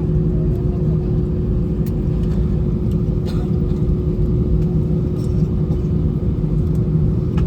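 Airbus A319 cabin noise on the ground after landing: a steady low rumble of the airliner rolling on the taxiway, with a constant hum running under it.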